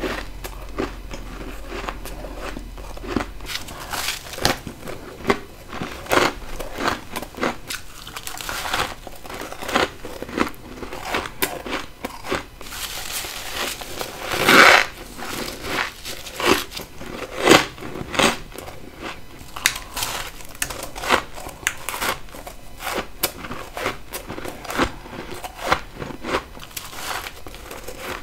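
Close-miked bites and chewing of freezer frost ice: a dense, irregular run of crisp crunches, the loudest a little past halfway.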